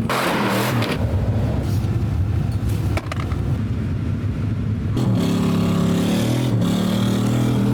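Truck engine running under throttle, a steady drone, with a rushing noise in the first second, a sharp click about three seconds in, and a stronger, steadier engine note from about five seconds in.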